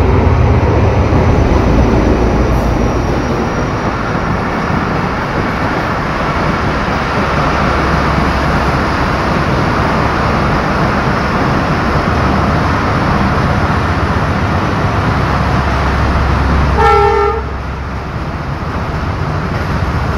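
Pakistan Railways passenger coaches rolling slowly past along the platform, a steady rumble of wheels and carriages on the rails. About 17 seconds in, a locomotive horn gives one short toot.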